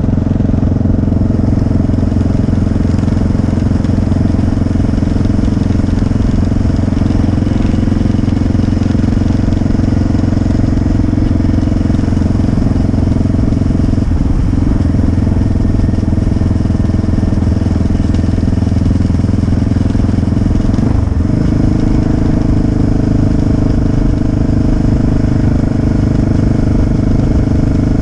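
Motorcycle engine running steadily on the move, with a low rumble under it. Its pitch shifts briefly about halfway through and again near the three-quarter mark.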